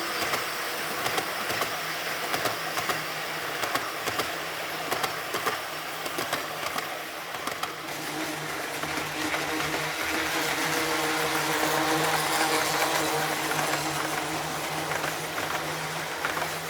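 O-gauge model train, two powered DD51 locomotive models hauling a heavy brass nine-car train, running along the track: a steady motor hum with frequent clicks of wheels over rail joints. It grows louder a little past the middle, then eases off.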